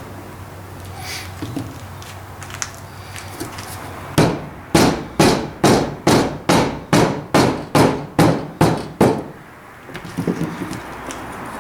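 A hammer striking parts of a vise during restoration: about a dozen sharp blows at an even pace of roughly two a second, starting about four seconds in and stopping about nine seconds in.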